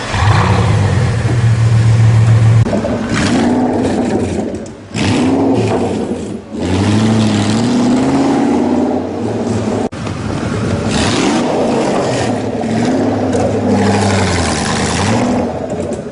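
Supercar engine revving: held steady at high revs for about two and a half seconds, then repeatedly rising and falling in pitch as it accelerates, with a brief sharp click about ten seconds in.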